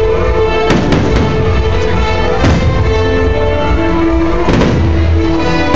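Fireworks show music playing loudly, with several fireworks bursting overhead: sharp booms about a second in, again near the middle and again near the end.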